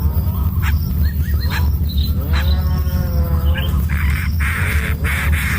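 Animal calls: wavering, pitched cries and a few clicks over a steady low hum, with a hiss from about four seconds in.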